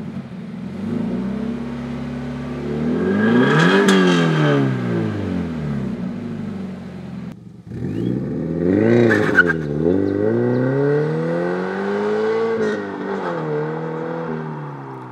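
2013 Scion FR-S's flat-four boxer engine, heard through a Flowmaster cat-back exhaust, being revved. The engine climbs to a peak about four seconds in and falls back. After a brief break it rises and falls several more times in quicker revs, then settles near the end.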